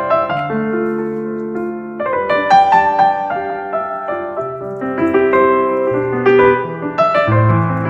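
Background piano music: a gentle melody over sustained chords, changing chord about every two to three seconds.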